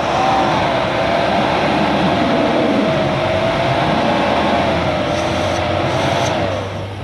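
A 4x4's engine held at high revs under load, with a steady, slightly wavering whine. It eases off about six and a half seconds in.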